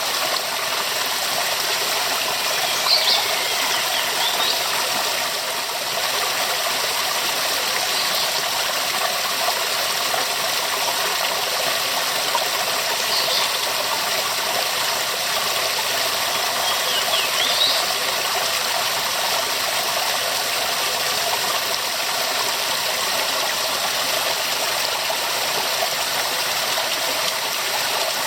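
Waterfall: a steady rush of falling water, a dense even hiss weighted toward the high end.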